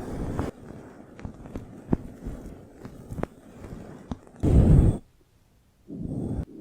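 Close-miked ASMR trigger sounds: a muffled rubbing rumble on the microphone gives way to a scatter of light taps and clicks. About four and a half seconds in comes a short loud rubbing whoosh, then a second of dead quiet before the rubbing starts again.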